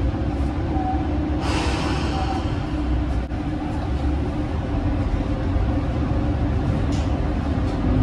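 Isumi Railway diesel railcar running with a steady low rumble. A burst of hissing air comes about one and a half seconds in.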